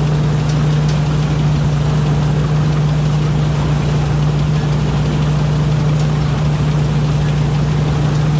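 Rice combine harvester's diesel engine running steadily at working speed, a loud even drone with machinery noise over it.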